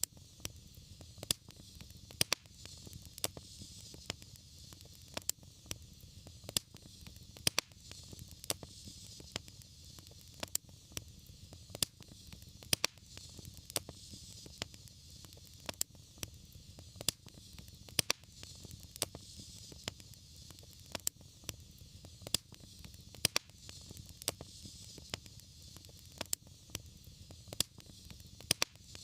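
Fireplace fire crackling, with irregular sharp pops about one or two a second over a soft steady hiss and low rumble.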